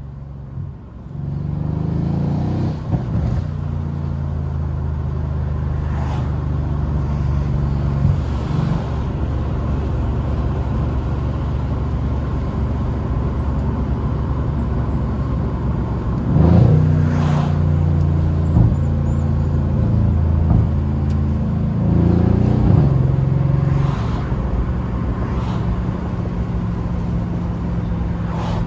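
Mercedes-AMG C63's twin-turbo 4.0-litre V8 running while driving, a steady low drone that gets louder about two seconds in and shifts pitch again a little past halfway, with a few brief sharp clicks.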